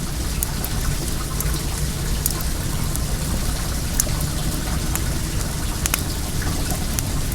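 Well water running and splashing steadily, mixed with the sharp scattered crackles and pops of a burning wood fire.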